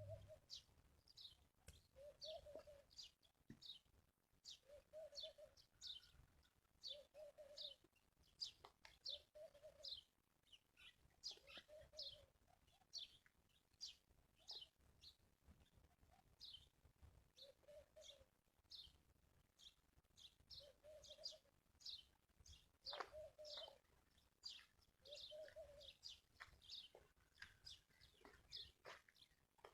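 Birds chirping in quick, overlapping high notes, with a lower short call repeating about every two seconds.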